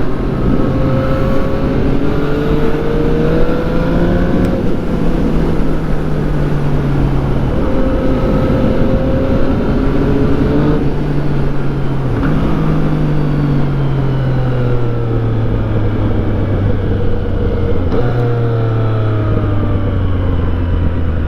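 2014 Yamaha FZ-09's three-cylinder engine under way, with wind rush. The engine note climbs for the first few seconds and drops at a gear change. It then falls slowly over long stretches as the bike slows, jumping back up twice as it changes down.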